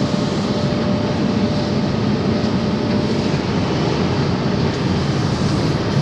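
Automatic car wash running over a car, heard from inside the cabin as a steady, loud rush of water and machinery.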